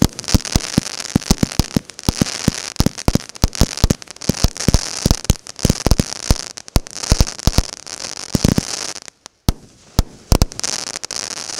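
Consumer fireworks battery (cake) firing in quick succession: sharp bangs of launches and bursts over a continuous crackle. About nine seconds in there is a brief lull, followed by a few final bangs.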